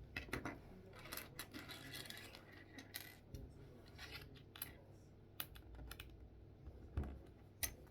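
Faint, scattered clicks of plastic Lego bricks being handled and pressed together.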